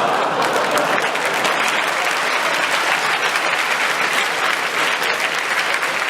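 A large audience clapping steadily in a hall, sustained applause.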